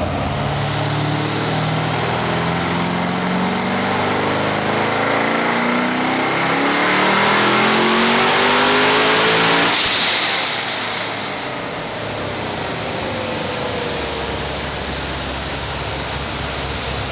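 Twin-turbo Corvette Z06's 7.0-litre LS7 V8 making a full-throttle dyno pull. Revs climb steadily for about ten seconds under a rising turbo whistle. The throttle then snaps shut and the turbo whine winds down while the engine drops back to idle.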